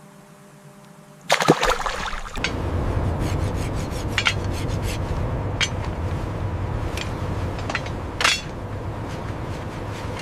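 Water rushing and splashing, starting suddenly about a second in, with a steady churning rumble and repeated sharp splashes throughout.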